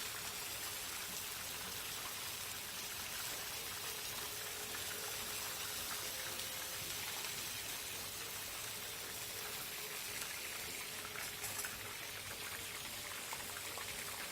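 Chicken lollipops deep-frying in hot cooking oil: a steady, even sizzle of bubbling oil.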